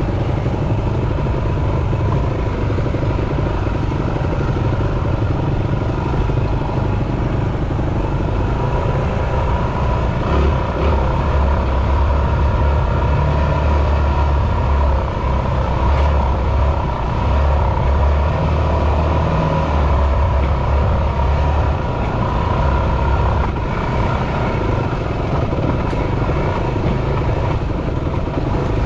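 Yamaha WR250F single-cylinder four-stroke dirt bike engine running steadily while being ridden. The low rumble grows stronger for about ten seconds in the middle, then eases back.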